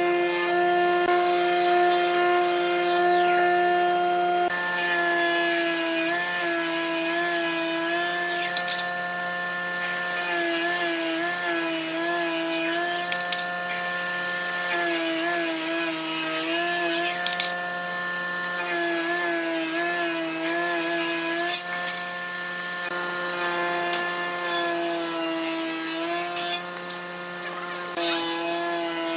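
Wood lathe running while a turning tool cuts into the spinning wood, with scraping and a steady machine whine that dips in pitch again and again from about five seconds in.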